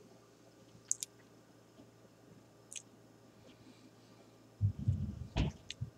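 Mouth noises of someone eating a burger: a few faint, wet clicks and smacks, then low muffled bumps with more clicks in the last second and a half.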